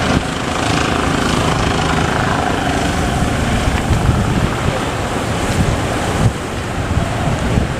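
Surf breaking and wind buffeting the microphone, with a motor fishing boat's engine running underneath as a steady low rumble.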